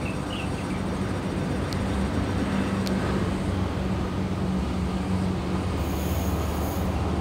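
MTR East Rail MLR electric multiple-unit train pulling out of the platform, giving a steady low hum and rumble as it moves off.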